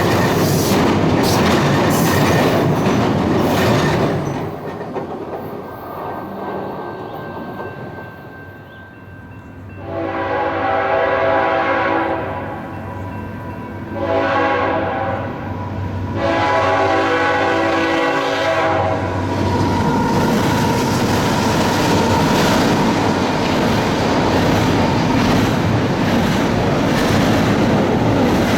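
A CSX train passing with loud rail and wheel noise that drops away about four seconds in, then a locomotive horn sounds two long chord blasts, the second longer. Loud train rumble and wheel clatter pick up again after the second blast and continue.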